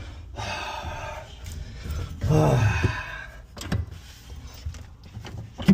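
Two heavy breaths, then a few light clicks and one sharp click near the end as a roof access latch is worked open.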